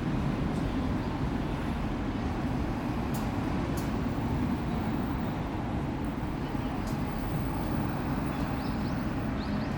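Mitsubishi Fuso Aero Star city bus's six-cylinder diesel engine idling steadily, a low even rumble.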